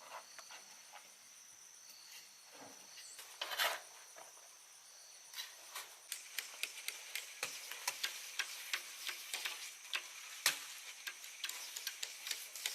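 Sharp taps and knocks, one loud knock a few seconds in, then several a second through the second half, over a steady high-pitched whine.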